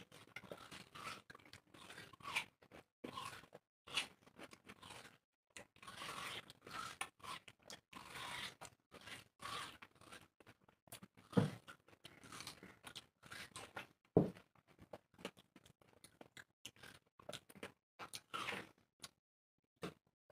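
Two people biting into and chewing fresh watermelon slices: an irregular run of crunching bites and chewing, with two louder bites about halfway through.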